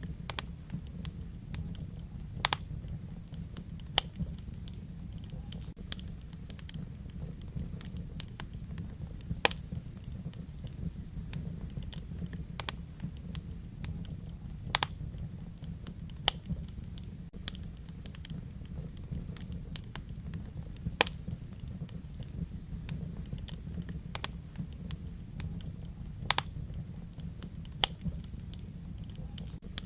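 Wood fire burning in a fireplace: irregular sharp crackles and pops, roughly one every two or three seconds, over a steady low rumble of the flames.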